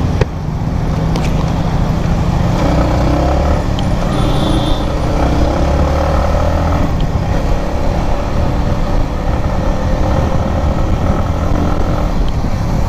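Yamaha MT-15's 155 cc single-cylinder engine heard from the rider's seat while riding in traffic. It pulls away and accelerates, its pitch rising twice as it climbs through the revs, then runs steadily, over constant road and wind rush on the microphone.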